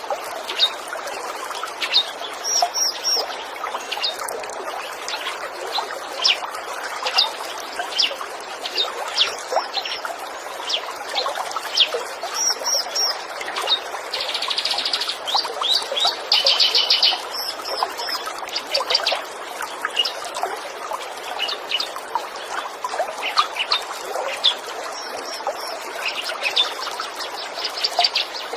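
Birds chirping and calling over the steady rush of a trickling stream, with a rapid buzzy trill about halfway through.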